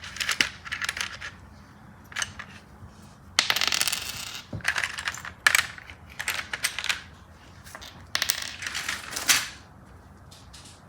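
Small plastic LEGO bricks clicking and clattering in irregular bursts as they are handled and sorted, with a short stretch of rustling a few seconds in.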